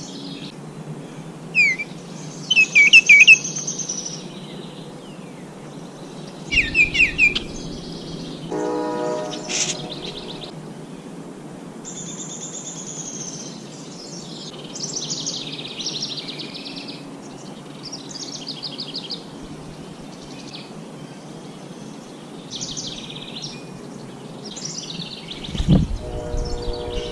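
Several songbirds singing and calling: repeated high chirps, trills and short phrases, one after another. Twice, about a third of the way in and near the end, a lower, held call or tone sounds under them, the second with a low thump, over a steady faint background hum.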